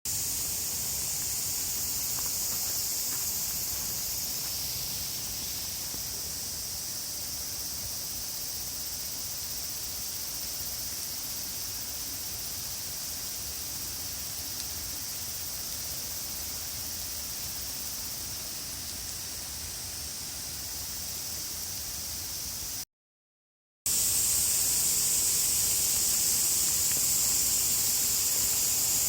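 Heavy downpour: a steady, even hiss of rain. It cuts out for about a second a little over twenty seconds in, then comes back louder.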